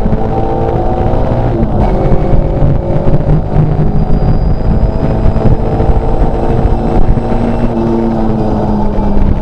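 Škoda 130 LR rally car's four-cylinder engine running hard, heard from inside the cockpit. Its revs rise and fall as the car is driven at speed.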